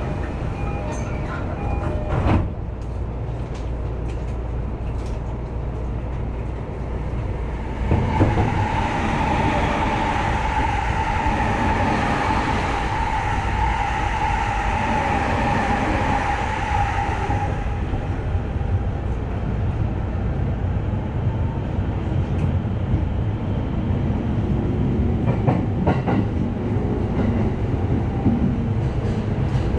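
Steady rumble of a commuter train running, heard from inside the car, with a sharp knock about two seconds in. From about eight seconds in, a train passing close on the next track adds a loud rush with a steady hum for about ten seconds, then the sound settles back to the running rumble with a few clicks near the end.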